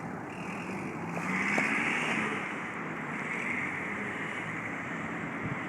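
A car passing on the road: its tyre and engine noise swells to a peak about two seconds in, then eases into a steady outdoor rumble.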